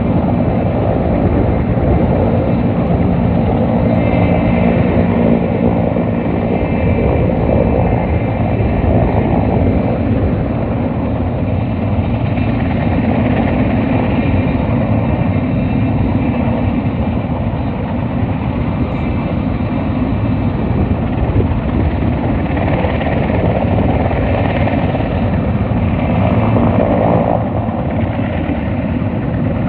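Firefighting helicopter running loud and steady, its rotor and engine noise sustained while it hovers to fill up with water.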